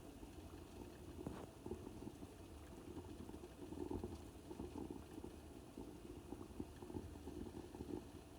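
Water at a boil, bubbling steadily with many small irregular pops.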